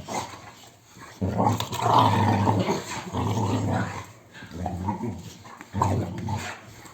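Dog growling in about four low, rumbling bouts separated by short pauses, the first and longest lasting about a second and a half.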